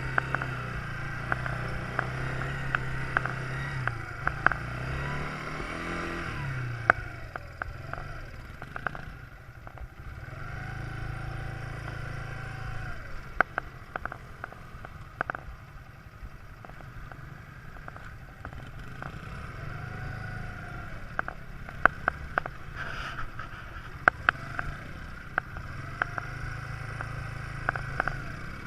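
Quad bike engine running, its pitch rising and falling repeatedly with the throttle, with frequent sharp knocks and rattles.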